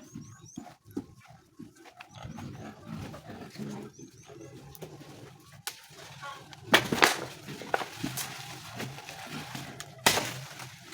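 Farm animals calling: a run of low calls, a few short high chirps in the first few seconds, and two louder harsh calls about seven and ten seconds in.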